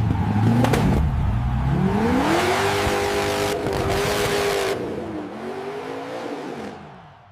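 Car engine revving: its pitch climbs and holds high with a hiss over it, drops, climbs again, then fades out near the end.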